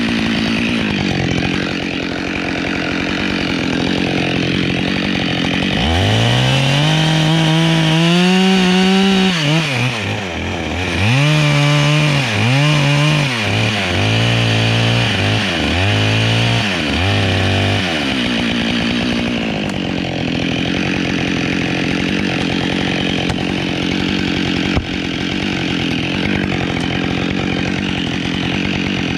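Husqvarna 572XP two-stroke chainsaw idling, then opened up to full throttle about six seconds in. It makes several revving cuts into wood until about eighteen seconds, then drops back to idle.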